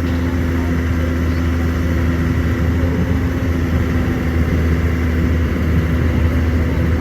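Heavy vehicle engine running steadily at a constant speed.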